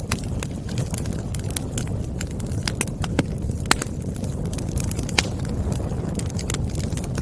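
Wood fire burning: a steady low rush of flames with irregular sharp pops and snaps of crackling firewood.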